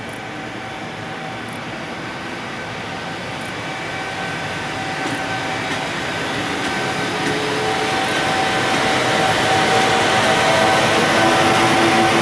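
EF510 electric locomotive hauling a container freight train as it pulls away, its running noise carrying several steady humming tones and growing steadily louder as it draws nearer.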